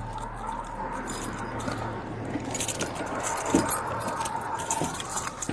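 Keys and metal gear on a police duty belt jangling and clicking, busier from about halfway through, with one thump a little past the middle, over a steady low hum.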